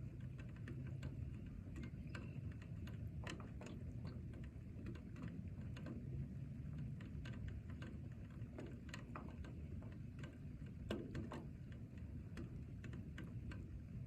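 Rain, with single drops tapping irregularly and sharply over a low, steady rumble.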